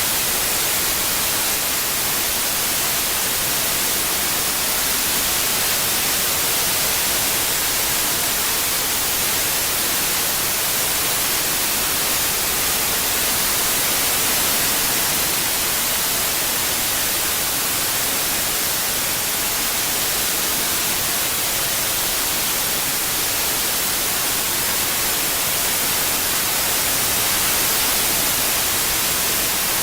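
Continuous white noise, a steady hiss strongest in the treble, played as a tinnitus masking sound; its loudness swells and eases slightly and slowly.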